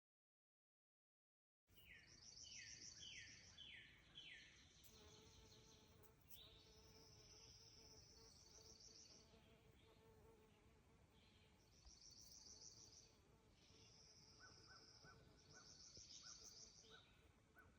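Faint birdsong: high, buzzy trills repeated in bouts of about a second, with a quick run of five falling notes about two seconds in and a lower string of pips near the end. The sound is silent for the first two seconds.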